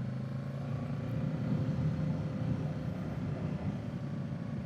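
Kawasaki Z650's parallel-twin engine running steadily at cruising speed through its stock exhaust, with a low, even rumble.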